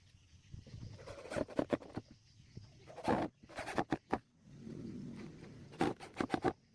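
Irregular clusters of sharp wooden knocks and taps, as boat frames and planks are fitted and hammered by hand.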